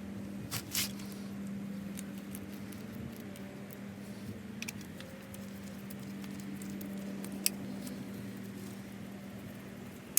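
A steady low hum throughout, with a few light, sharp metallic clicks and taps from hand work on the engine block as threaded fasteners with Loctite are run into blind holes.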